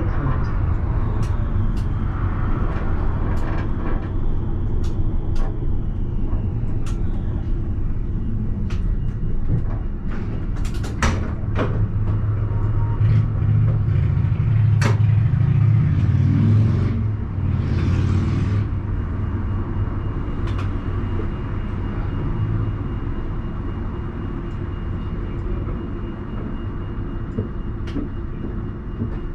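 Alstom Citadis tram heard from the driver's cab: a steady low rumble with scattered sharp clicks. A louder hum builds about halfway through, followed by two short hisses.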